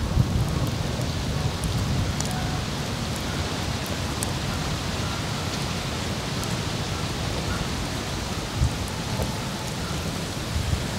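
Wood fire crackling in a lightweight mesh fire pit, with sparse sharp pops over a steady hiss. Wind rumbles on the microphone underneath.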